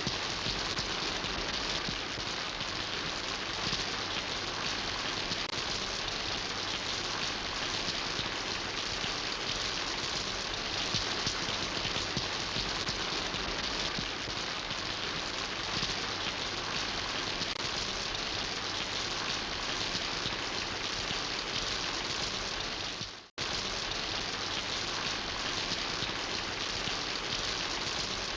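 Steady rain falling on a surface, an even patter of countless drops. Near the end the rain fades out to silence for a moment, then cuts straight back in.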